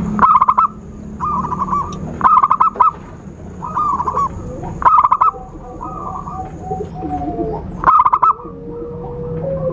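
Zebra doves (perkutut) cooing: phrases of quick, stuttering notes every second or two, loud ones alternating with softer answering ones, with a lower, drawn-out coo near the end.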